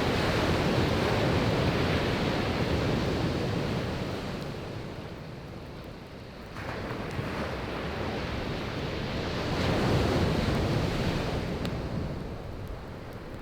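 Sea waves breaking on a beach, surging in twice and washing back, with a few faint crackles of burning firewood near the end.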